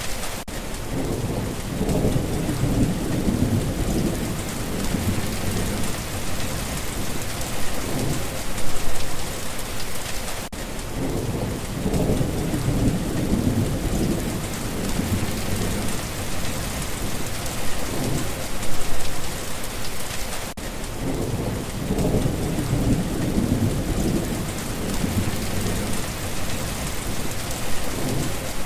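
Steady rain falling, with low rolls of thunder swelling and fading about every ten seconds.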